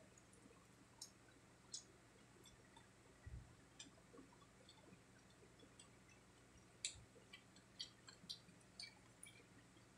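Faint mouth sounds of someone chewing crispy fried pork cheek: scattered wet clicks and smacks, thicker near the end, with two brief low thumps.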